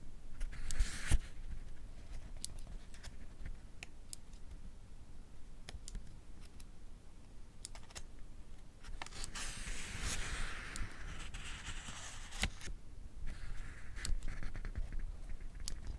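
Pages of a paperback book being turned, with scattered sharp clicks of a mechanical pencil's lead being pushed out. There are rustling page turns near the start and again in the second half.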